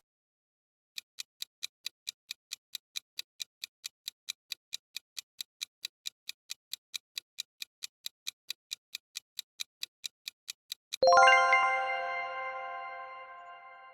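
Clock-tick sound effect of a countdown timer, about four to five ticks a second for about ten seconds. It is followed by a bright bell chime that rings out and fades, marking the end of the countdown.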